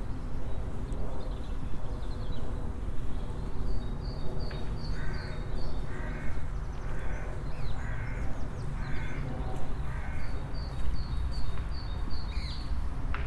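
Birds calling over a steady low outdoor rumble: a call repeated six times, about once a second, in the middle of the stretch, and a small bird's quick run of high repeated notes at the start and again near the end.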